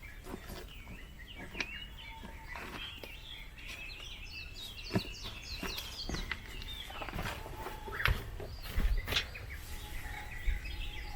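Small birds chirping and calling in quick runs, with scattered knocks and rustles from soil being dug and handled in a garden bed; the sharpest knocks come around the middle and after it.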